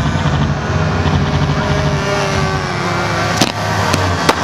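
Radio-controlled model warplanes' engines droning in flight, their pitch slowly falling. There is one sharp pop about three and a half seconds in, and a rapid string of pops begins at the very end.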